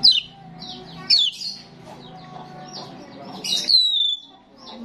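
Starling singing: sharp falling whistles, one right at the start, one about a second in, and a longer, louder falling whistle about three and a half seconds in, with softer chatter between them.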